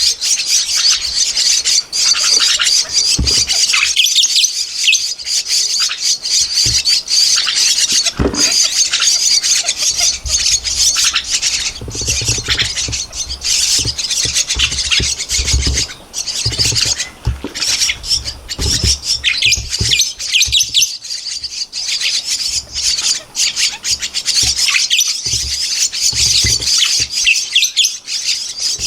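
Javan myna nestlings calling without a break, a dense chatter of rapid, harsh, high-pitched calls: begging to be fed. Low bumps and rumbles come at intervals, mostly in the middle.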